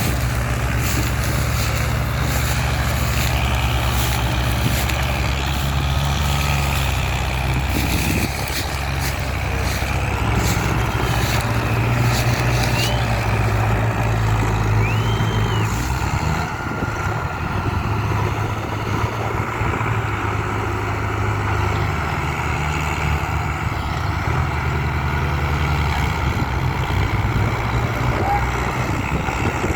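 Mahindra Arjun 555 DI tractor's diesel engine running under load, towing a loaded sugarcane trolley. It is a continuous low drone whose note shifts a few times.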